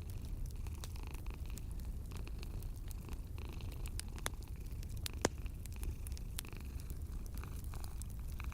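Cat purring steadily and low, over wood fire crackling in a fireplace: scattered small crackles and one louder pop about five seconds in.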